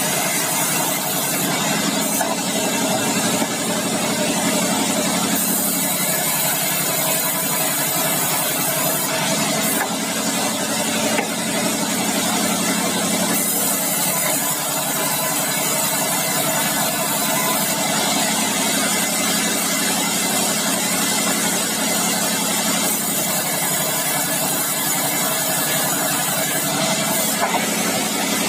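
Bandsaw mill running steadily, a dense even machine noise with a hiss that rises and falls slightly every few seconds.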